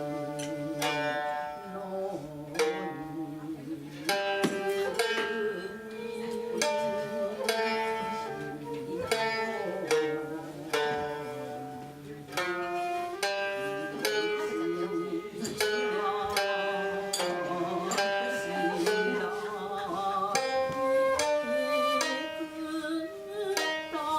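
Traditional Japanese sankyoku ensemble music: a run of plucked string notes, each ringing and fading, with a held, wavering melody line in places.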